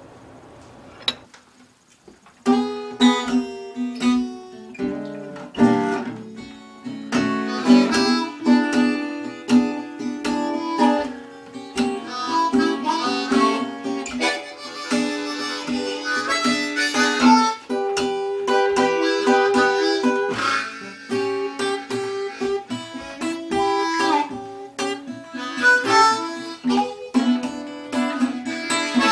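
Blues harmonica playing held and bending notes over plucked guitar accompaniment, starting about two and a half seconds in after a brief quiet.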